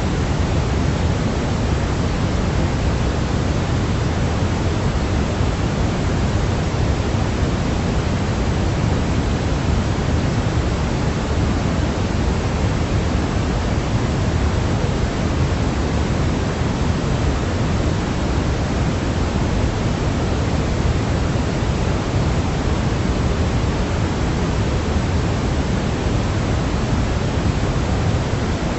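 Steady synthetic noise for baby sleep, weighted toward the low end like pink noise, with a soft, even hiss that never changes.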